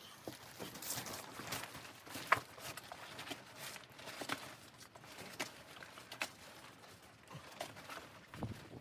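Footsteps crunching in snow at an uneven pace, with a sharper knock about two and a half seconds in.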